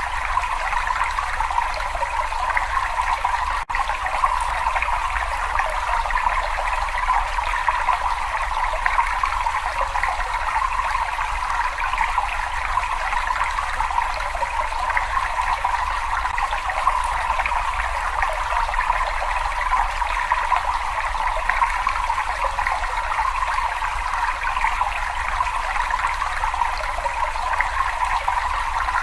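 Water trickling and splashing steadily in a cave, a continuous even rush with a low rumble underneath. It dips for a split second about four seconds in.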